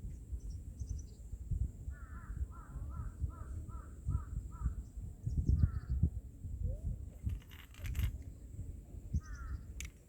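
A crow cawing: a quick run of about seven caws about two seconds in, then single caws further on. Under it is a low, uneven rumbling noise, and a few faint clicks come near the three-quarter mark.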